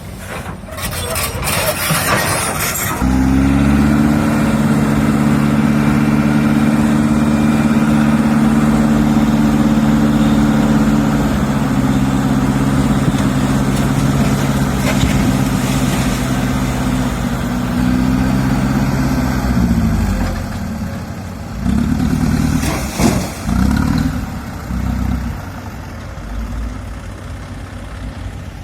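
Diesel engine of a Komatsu PC200 hydraulic excavator revving up about three seconds in and running hard under load, dipping slightly partway through, then dropping back toward idle with a few uneven surges near the end. A short rough clatter comes at the very start.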